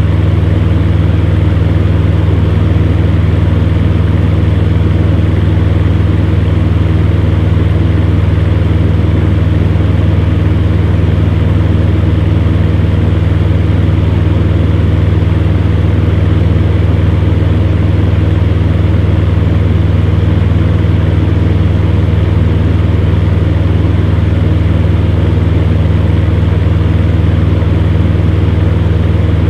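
Fan heater running steadily: a constant low motor hum with the even rush of its fan, unchanging throughout.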